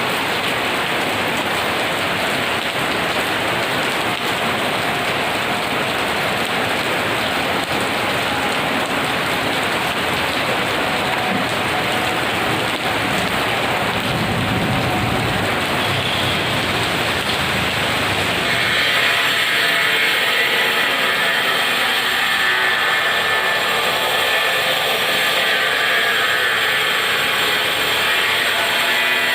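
Heavy rain pouring steadily, with a low rumble of thunder about halfway through. About eighteen seconds in, the sound switches abruptly to a brighter, harsher hiss.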